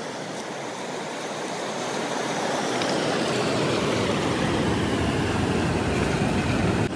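River water rushing steadily, slowly growing a little louder.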